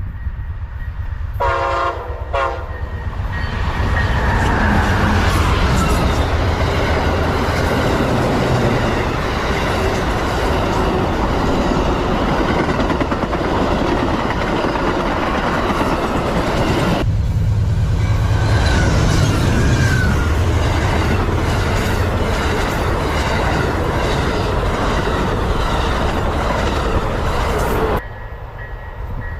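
An Amtrak passenger train sounds its horn in two short blasts about two seconds in, then runs past close by with a loud, steady rumble and wheel-on-rail noise. The sound changes abruptly twice, near the middle and near the end.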